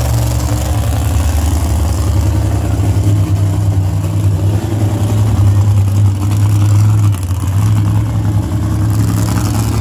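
A mini monster truck's engine running steadily with a deep, pulsing note, its revs shifting slightly a few times.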